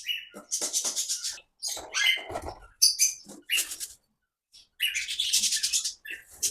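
A flock of small aviary birds chirping in quick, overlapping bursts of high-pitched calls, with a short pause a little after the middle.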